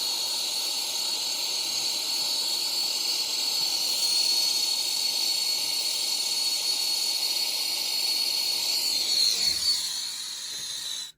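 Brazing torch flame hissing steadily with a thin high tone while heating a refrigerant leak on an evaporator coil for brazing. The sound shifts shortly before the end and then cuts off abruptly.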